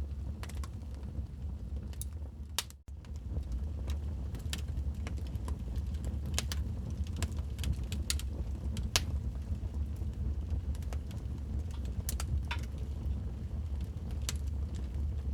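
Wood fire in a fireplace crackling: irregular sharp pops and snaps over a steady low rumble of flames. The sound cuts out for an instant about three seconds in.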